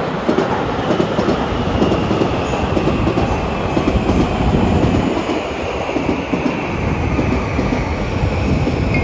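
Electric commuter train moving along the platform: wheels rumbling and clacking over the rail joints, with a thin high whine slowly falling in pitch.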